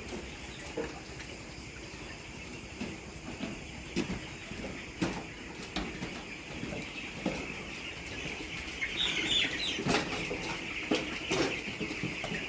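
Chickens clucking and stirring, with scattered short knocks and a few brief higher calls near the end, over a steady high hiss.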